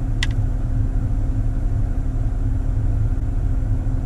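Steady low rumble and hum of a car idling, heard from inside the cabin, with one short sharp click about a quarter second in.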